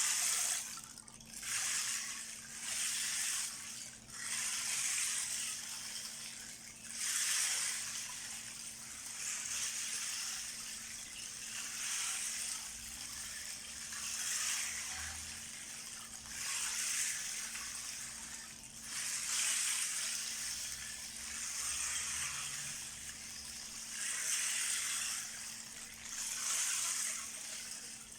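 A 12-inch rain disk (ocean drum), its loose beads rolling across the drumhead as it is tilted back and forth, making a rushing hiss like rain or surf. It swells and fades about every two to three seconds.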